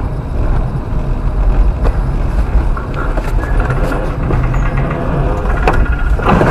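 Road vehicle driving: steady low engine and road rumble, with a few short knocks along the way and a louder one near the end.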